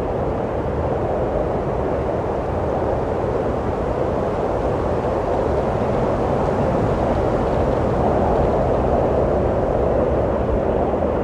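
Steady wind blowing, a dense rushing noise that swells a little and eases again, with no gusts breaking off.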